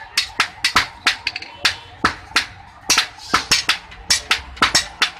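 Hand hammer striking hot iron on an anvil during knife forging: sharp metallic blows, about three a second in an uneven rhythm.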